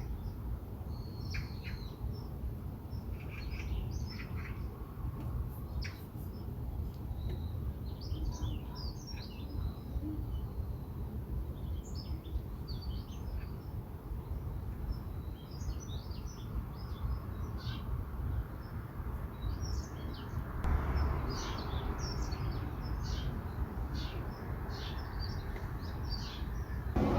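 Small birds chirping, many short high chirps in quick scattered runs, over a steady low rumble of background noise that grows a little fuller near the end.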